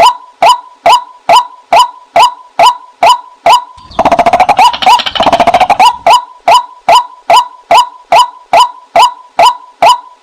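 White-breasted waterhen calls used as a decoy: a steady run of short, clipped notes, about two and a half a second. About four seconds in, a rapid chattering burst of much faster notes runs for about two seconds before the steady calling resumes.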